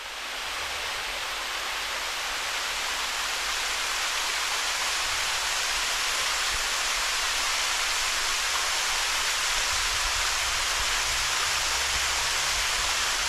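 Waterfall rushing, a steady, even roar of falling water that rises in over the first second and then holds.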